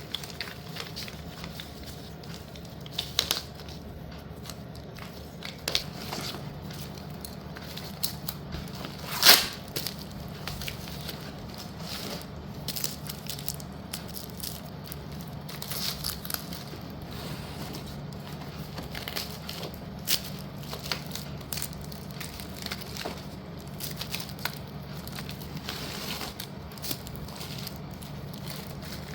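Slate pieces being handled, sorted and set down: scattered clicks and knocks, the loudest about nine seconds in, over a steady low hum.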